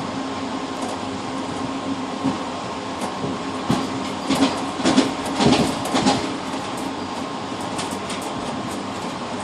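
Passenger train running, heard from inside the rear cab of the last car: a steady rolling rumble with a constant hum. About four seconds in comes a quick run of loud clacks as the wheels pass over rail joints or points.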